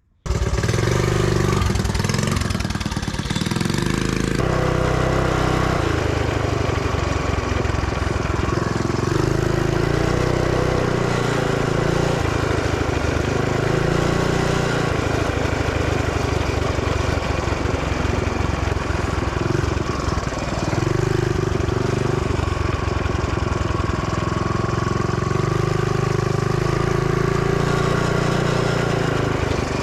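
Mini bike's Briggs & Stratton single-cylinder engine running under ride, its pitch rising and falling every few seconds as the throttle opens and closes.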